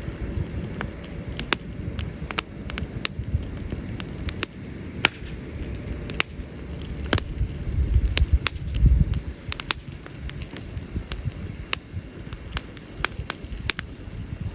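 Wood campfire burning, with sharp irregular crackles and pops from the burning wood over a low rumble that swells about eight to nine seconds in.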